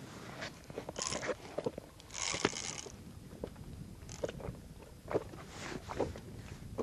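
Small handling noises in a boat: scattered light clicks and knocks, with two brief hissy scrapes, one about a second in and a longer one about two seconds in.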